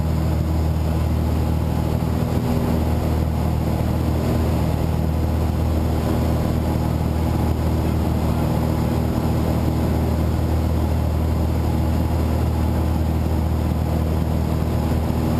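Light aircraft's engine and propeller droning steadily at a constant pitch in flight.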